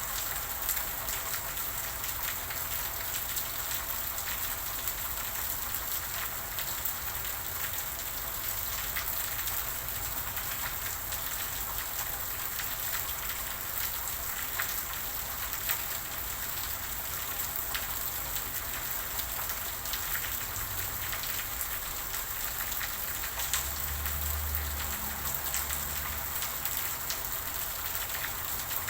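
Steady rain falling on a surface, a dense patter of individual drops ticking throughout. A brief faint low rumble comes in about four-fifths of the way through.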